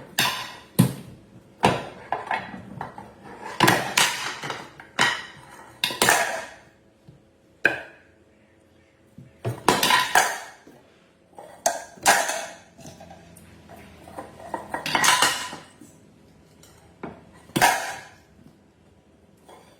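Irregular clattering and clinking knocks, some ringing briefly, with short quiet gaps between them.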